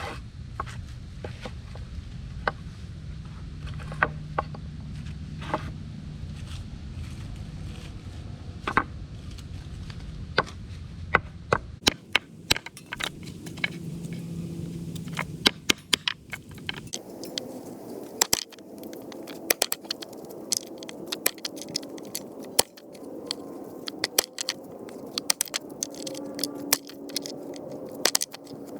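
Wood fire crackling and popping in a Solo Stove Titan, with irregular sharp snaps. A low rumble under the first part stops after about twelve seconds, and the pops then come thicker and crisper.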